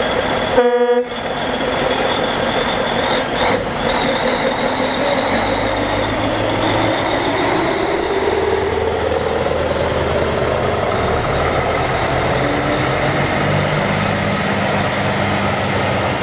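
A short toot of a truck horn about half a second in, over the steady sound of heavy truck engines passing. Around the middle one engine's pitch rises steadily as a truck accelerates, with low engine rumble after.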